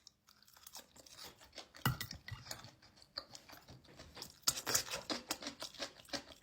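Close-up chewing and crunching of food: a fast, irregular run of crisp bites and crunches that grows louder about halfway through.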